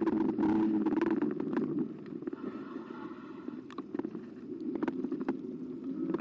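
Carbo X eBike riding noise: a low motor hum with tyre and path rumble, easing off about two seconds in and picking up again near the end, with scattered sharp rattles and clicks.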